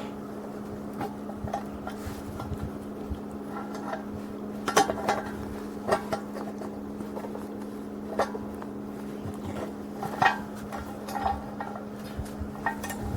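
Small metal parts clinking and tapping at irregular intervals as a nut, spring, washer and nail are fitted onto the L-shaped rod of a homemade stovepipe damper, over a steady low hum.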